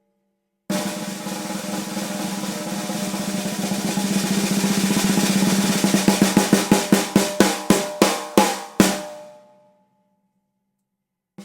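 Unmuffled London plane wood snare drum (Zebra Drums Red Plane, Remo Ambassador coated batter head) played as a roll that starts about half a second in and swells louder. It then opens into single strokes that slow down, with the last stroke ringing out about nine seconds in.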